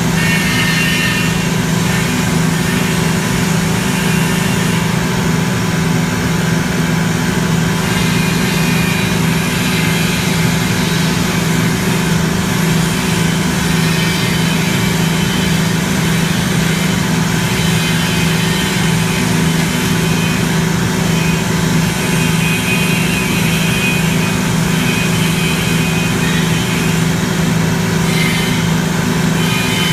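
Industrial paint-line machinery running with a steady, unchanging low hum and drone.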